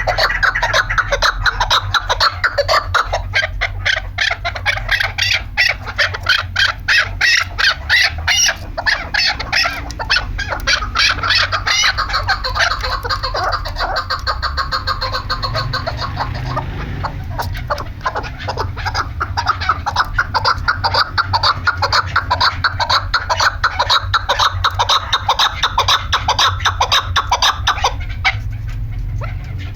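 Chukar partridge calling: a fast, unbroken run of clucking notes, several a second, over a steady low hum. The calling breaks off near the end.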